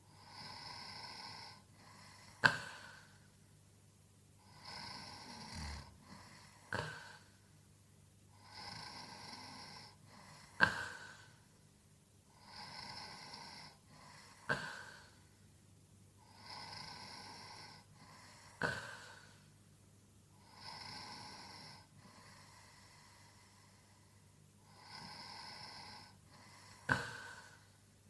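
A sleeping man snoring in a slow, regular rhythm, about one breath every four seconds. Each drawn-out snoring breath lasts about a second and a half and is followed by a sharp puff, the loudest sound in each cycle. There are seven cycles, and one of them lacks the sharp puff.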